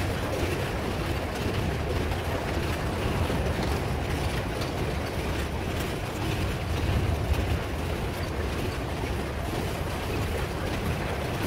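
Loaded metre-gauge freight train's boxcars and grain hopper cars rolling slowly past: a steady rumble of steel wheels on rail.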